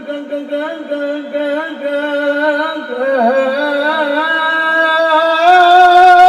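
A man singing sholawat in the ornamented style of a Qur'an reciter. A single voice winds through quick turns on a sustained vowel, then rises and swells into a long held note near the end.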